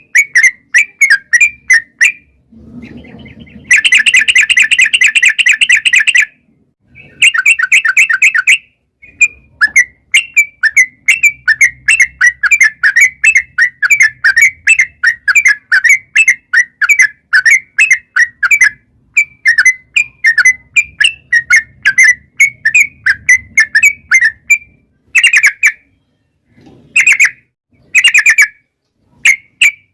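Yellow-vented bulbul (trucukan) singing a long, rapid bubbling song of short chattering notes in quick runs, broken by brief pauses. A few seconds in there is one continuous fast trill.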